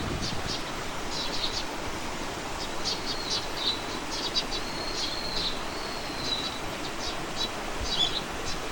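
Wild birds chirping with short high notes throughout, with a longer whistled note sliding gently down in pitch about halfway through, over a steady outdoor background rush.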